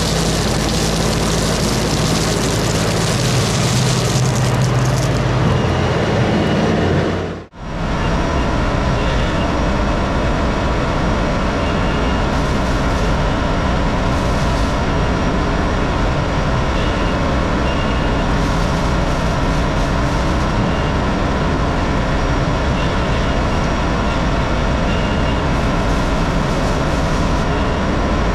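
Tractor diesel engine running steadily, from an LS MT357 cab tractor. The sound drops out sharply about seven and a half seconds in and comes straight back, a little harsher.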